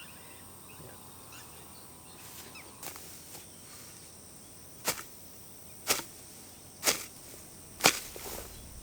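Four sharp blows about a second apart, over a steady high insect buzz.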